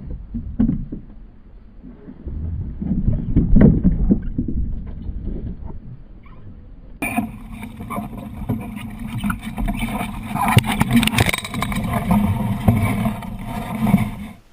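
Boat and water noise with a few sharp knocks, switching abruptly about halfway through to a louder, steadier noisy rush.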